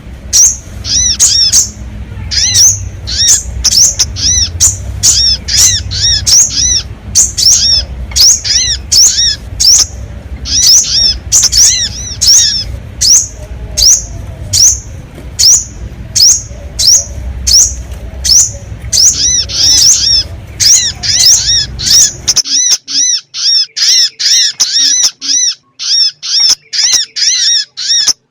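Sogon bird-lure calls: high, sharp chirps repeated rapidly, two to three a second, over a low background hum that cuts out abruptly about 22 seconds in, leaving the chirps alone.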